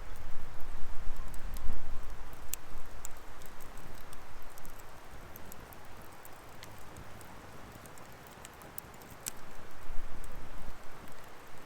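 Firewood burning, crackling with scattered sharp pops over a steady hiss of flame. A low rumble drops away in the middle and comes back near the end.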